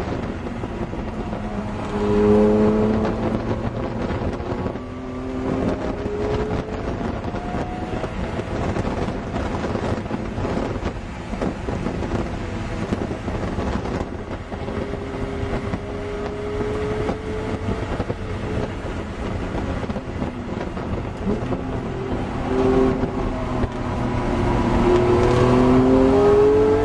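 Car engine heard from inside the cabin while driven hard on a racetrack. It rises in pitch several times as it pulls up through the revs, over a steady rush of noise.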